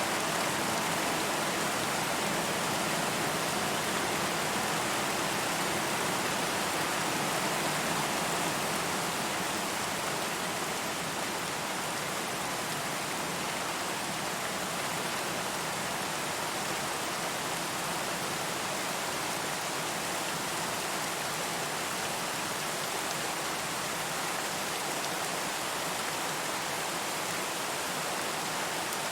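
Steady rain falling as an even hiss with no distinct drops, easing slightly about nine seconds in.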